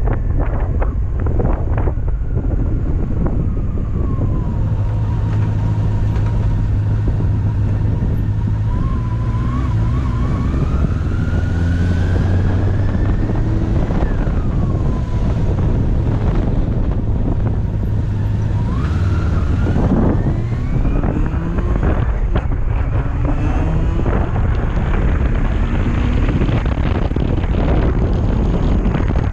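Honda CB400SF's 399 cc inline-four engine under way, its pitch holding steady, climbing slowly as the bike accelerates, falling as the throttle closes about halfway through, then rising sharply again. Wind buffets the microphone throughout.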